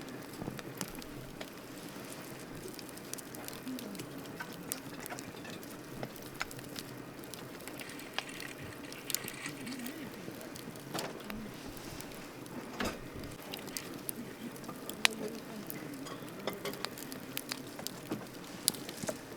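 A wood campfire burning, with a steady soft rush of flames and frequent sharp crackles and pops from the burning wood. The loudest pop comes about fifteen seconds in.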